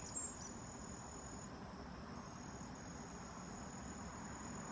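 Insects trilling steadily in one high, unbroken tone, with a faint outdoor background hum underneath.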